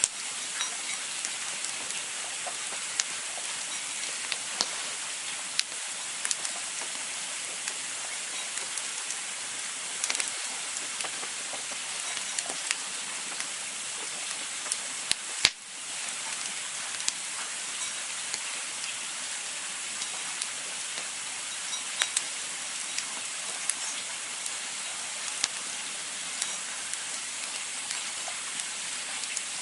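Campfire burning with a steady hiss and scattered sharp crackles and pops, one louder pop about halfway through.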